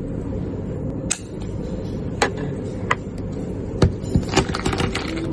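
A steady low rumble, as from a running vehicle. Sharp clicks and knocks are scattered through it, with several in quick succession near the end.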